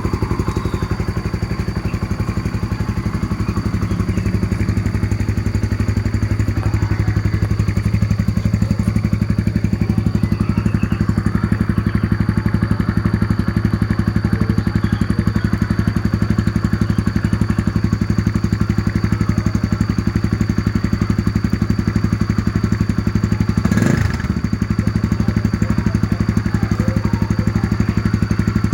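Honda CB150R motorcycle engine idling steadily through an aftermarket Tirev exhaust, with an even, rapid putter. About three-quarters of the way through there is a brief blip where the sound dips and changes before settling back to idle.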